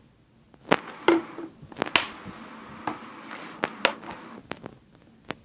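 A stirrer tapping and clicking against the side of a container as a slime mixture is stirred, about seven sharp irregular taps. The mixture has not yet dissolved.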